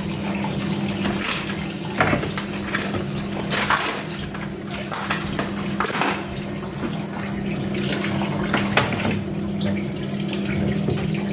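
Water running from a kitchen tap into a sink, with irregular splashes and knocks as something is rinsed under it.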